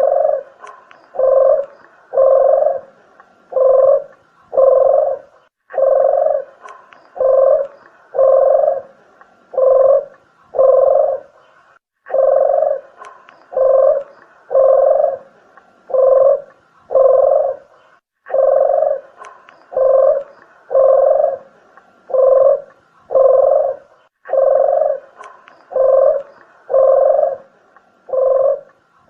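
Red collared dove (puter geni) cooing, played as a lure call: a phrase of about five low coos repeated over and over, a new phrase starting roughly every six seconds.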